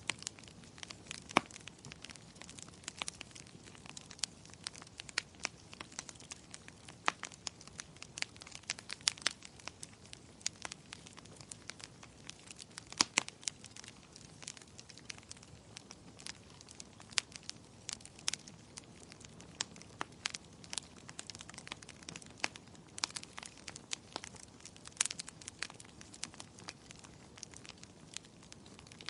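Wood fire burning in a fireplace, crackling and popping irregularly over a soft steady hiss, with a couple of louder pops.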